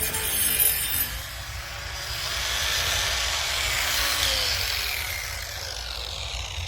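Angle grinder grinding into the wood of a log's saddle notch. The noise builds for a couple of seconds, then fades as the pitch falls toward the end.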